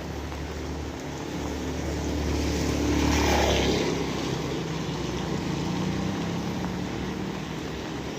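A motor vehicle passing by: its engine hum and road noise grow louder to a peak a little over three seconds in, then fade away over steady rain.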